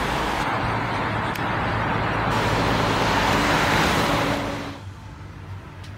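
Intercity double-deck electric train moving along a station platform: a loud, steady rumble of wheels and running gear with a low hum. About four and a half seconds in, it drops suddenly to a much quieter, muffled on-board sound.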